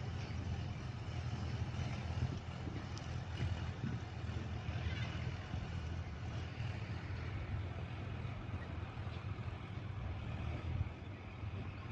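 Tractor engine running steadily, a continuous low-pitched drone.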